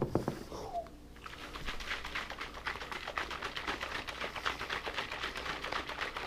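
A rapid, even clicking rattle starts about a second in and keeps going: the scooped pumpkin-pie mix being stirred or shaken in its container.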